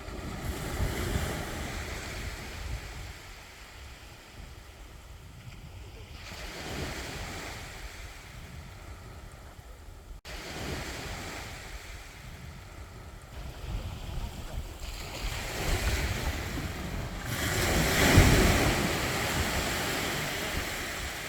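Sea waves breaking and washing up a beach in long swelling surges, the biggest near the end, with wind rumbling on the microphone. The sound drops out for an instant about ten seconds in.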